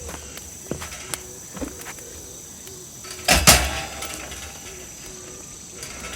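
Insects trilling steadily in the forest background, with a few light clicks and one loud double clatter about three and a half seconds in.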